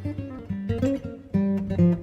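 Background music: acoustic guitar playing plucked and strummed notes, softer here between louder strummed chords.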